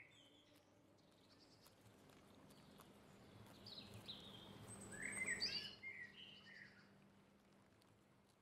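Faint birds chirping, a cluster of short calls that is loudest about four to six seconds in, over a quiet background.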